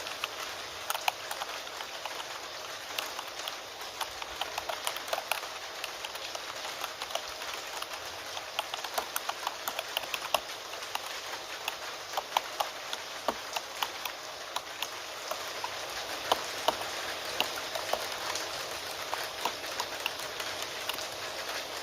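Keyboard typing: sharp key clicks in irregular bursts, over a steady hiss of rain.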